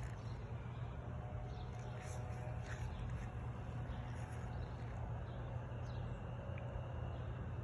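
Steady low outdoor background rumble, with a few faint, short bird chirps.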